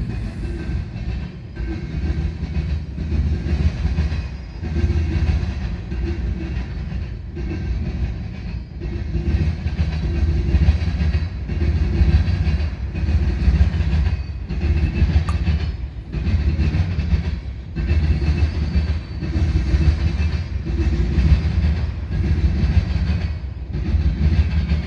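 Northbound Norfolk Southern manifest freight train rolling past: a steady low rumble of freight cars on the rails, with a rise and dip in level every two seconds or so as car after car goes by.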